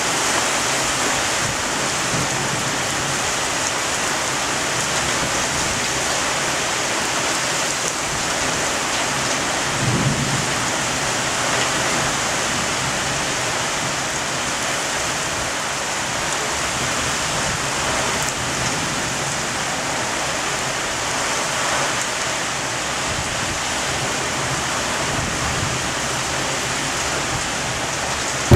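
Heavy thunderstorm rain pouring steadily, with a brief low rumble of thunder about ten seconds in.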